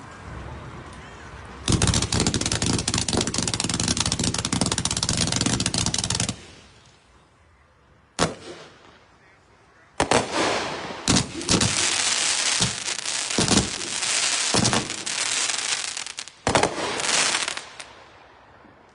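A 183-shot sprinkler cake firing: a dense, rapid barrage of shots starting about two seconds in and lasting some four seconds, a lone shot near the middle, then a second rapid barrage with a few short breaks that stops shortly before the end.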